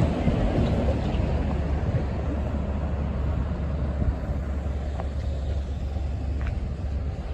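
Road traffic: a steady low rumble of vehicles on the road, easing off slowly.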